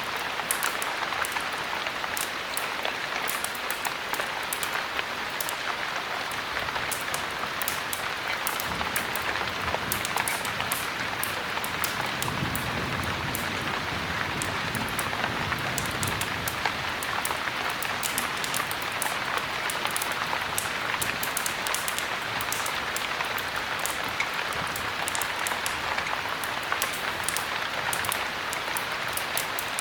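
Heavy rain pouring steadily, with many sharp little ticks and crackles scattered through it. A low rumble swells and fades in the middle.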